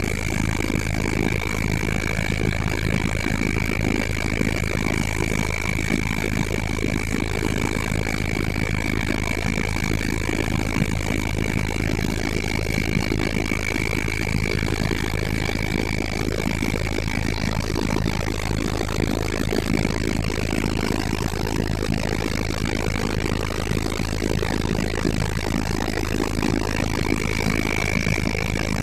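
Helicopter turbine engine and rotor running steadily: a deep, even drone with a thin, steady high whine over it.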